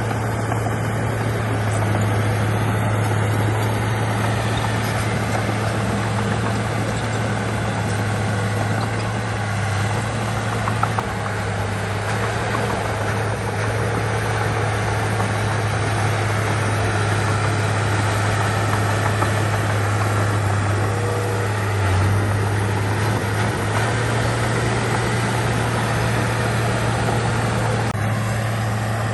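Heavy earthmoving machine's diesel engine running steadily, with a strong, even low hum under a dense mechanical rumble.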